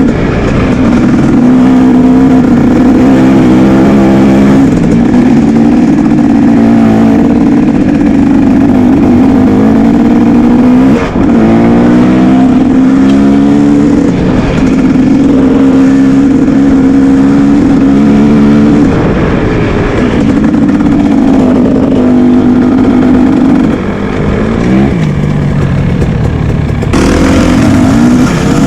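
Motocross motorcycle engine running hard, loud, its pitch climbing and dropping again and again as the throttle is opened and closed.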